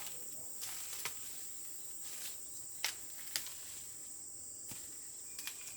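Steady high-pitched drone of insects, with a few sharp clicks or snaps, the loudest two close together about halfway through.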